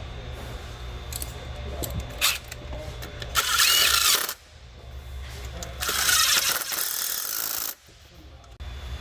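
Power ratchet zipping down bolts in two bursts, about a second and nearly two seconds long, with a few clicks of tool handling before them.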